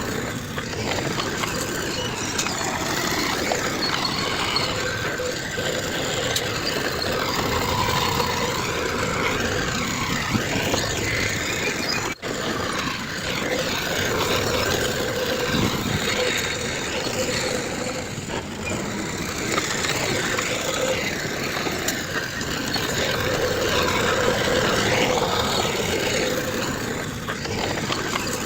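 Heavy diesel machinery, a bulldozer and dump trucks, running steadily under load. The sound cuts out for an instant about twelve seconds in.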